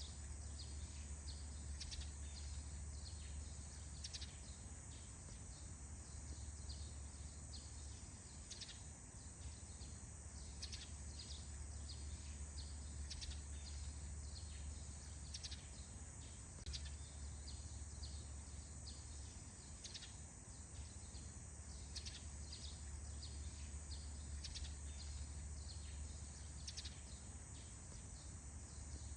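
Faint dawn forest ambience: birds chirping in many short, scattered calls over a steady high-pitched whine and a low rumble.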